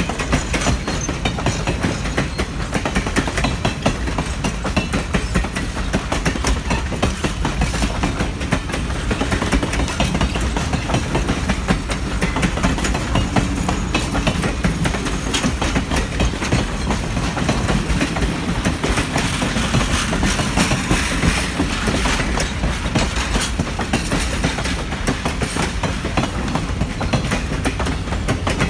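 Passenger cars of a heritage train rolling past close by, their steel wheels clattering steadily over the rail joints above a low rumble.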